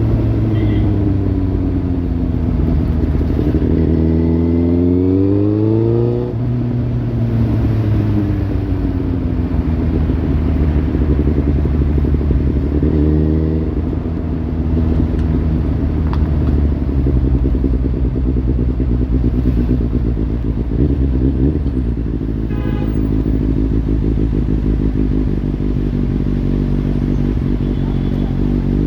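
Kawasaki Z800's inline-four engine through a Lextek slip-on exhaust. The engine speed climbs to a peak about six seconds in and drops back, then rises briefly twice more before settling to a steady note.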